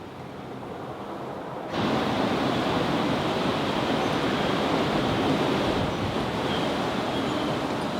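Steady rushing noise that suddenly gets louder just under two seconds in, then holds steady.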